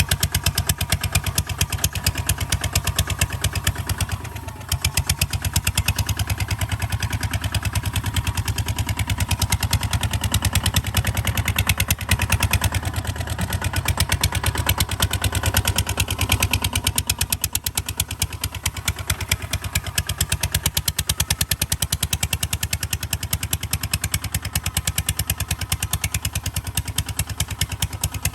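Kubota ZT 155 DI single-cylinder diesel engine running steadily with an even, rapid firing beat, dipping briefly about four seconds in.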